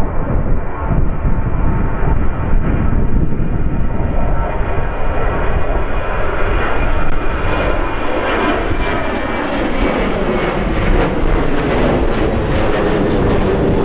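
Engines of a passenger aircraft passing close by, the engine whine growing louder through the second half with a pitch that slides downward as it goes by, over heavy wind buffeting on the microphone.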